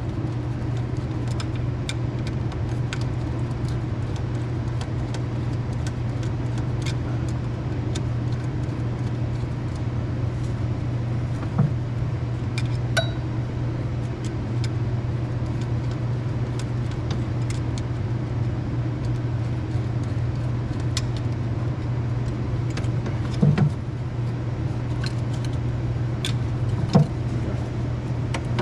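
A steady low hum, with a few scattered metallic clinks and knocks from hand tools working on the hose fittings.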